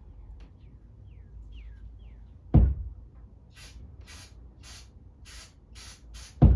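Two loud sharp knocks about four seconds apart, with six short hissing spray bursts about half a second apart between them, during cleaning of a small-engine carburettor. Faint bird chirps sound behind.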